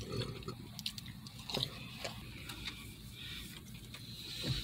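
A bite into a chicken sandwich on a pretzel bun, then quiet chewing with small scattered mouth clicks.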